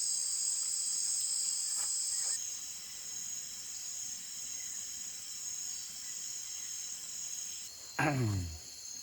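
Tropical rainforest insects buzzing in a steady, shrill chorus, with the chorus shifting twice. Near the end there is a brief voice-like sound that falls in pitch.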